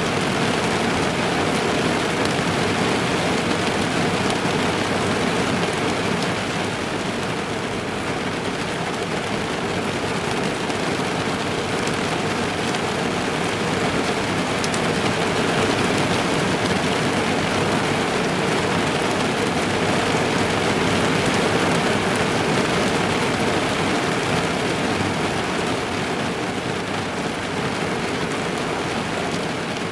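Steady heavy rain drumming on a car's roof and windows, heard from inside the car: a dense, even patter of drops.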